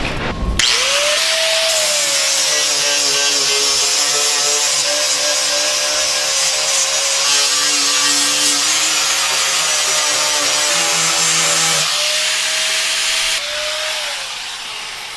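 A power tool's motor starts about half a second in and runs steadily with a whine and a harsh hiss as it works material, then eases off and winds down in pitch near the end.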